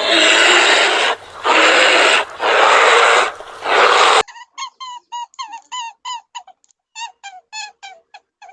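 A big cat roaring in four loud, rough bursts; it cuts off suddenly, and a small animal takes over with a quick series of short, high squeaky peeping calls, several a second.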